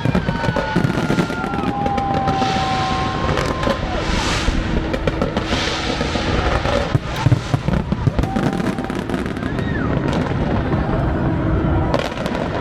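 Fireworks going off in rapid, continuous succession: dense bangs and crackling, with a few thin whistles gliding in pitch here and there.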